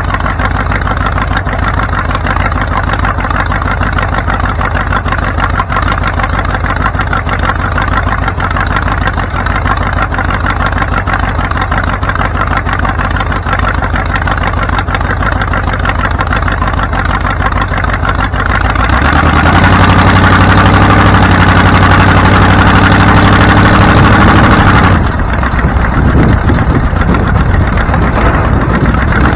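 Car engine running steadily under a haze of road noise. It speeds up and gets louder about two-thirds of the way through, its pitch rising for several seconds, then eases off near the end.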